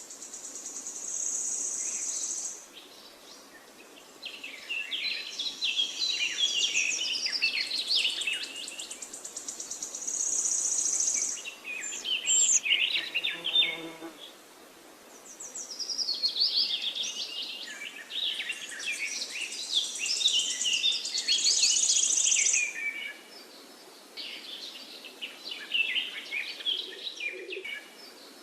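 Songbirds singing: phrases of quick, varied chirping and warbling alternate with high buzzy trills, coming in bursts of a few seconds with short pauses between.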